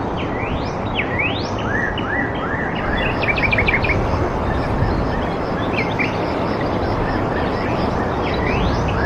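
Several birds calling over a steady rushing background. The calls include quick rising whistled sweeps and, about a third of the way in, a fast run of about six short notes.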